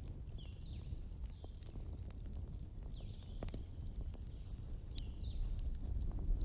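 Wood fire burning in a fireplace: a steady low rumble of flames with scattered sharp crackles and pops. Several short high chirps and a longer thin whistle about halfway through ride over it.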